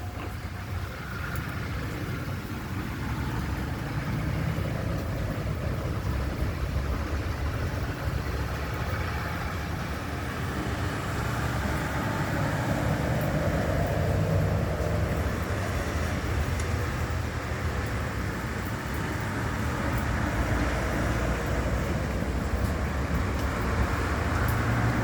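Steady road vehicle noise: a low rumble with a hiss over it, growing slightly louder over the stretch.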